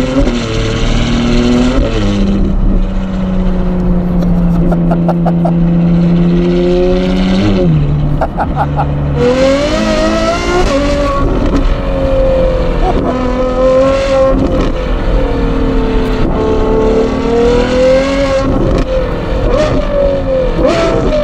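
Ferrari 812 GTS's naturally aspirated 6.5-litre V12 through a Novitec sport exhaust, pulling at steady low revs with a low bellow. About seven seconds in the revs drop, then the engine is revved hard, its pitch climbing and falling again with each gear change.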